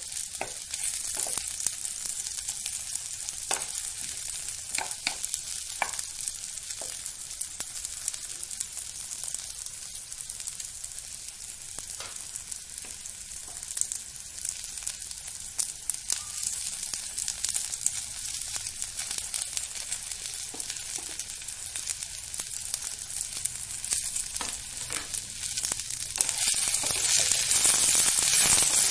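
Sliced smoked chicken sausage and potatoes sizzling in a non-stick frying pan, stirred with a spatula that clicks and scrapes against the pan now and then. The sizzle grows louder near the end.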